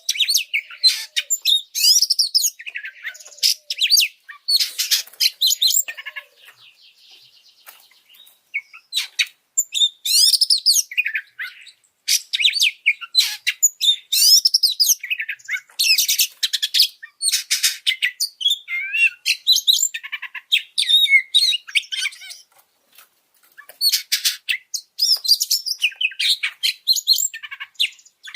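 Oriental magpie-robin (kacer) singing a fast, fired-up song of high sweeping whistles and chattering notes, with a couple of brief lulls. This is the agitated, high-emotion song used as a tutoring recording to rouse other birds.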